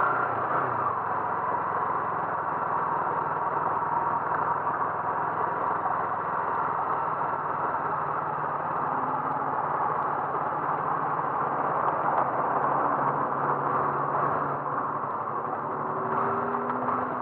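Car driving along with a steady engine hum and road noise.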